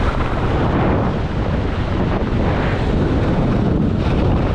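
Steady rush of wind buffeting a GoPro's microphone during a ski run, with no breaks or distinct events.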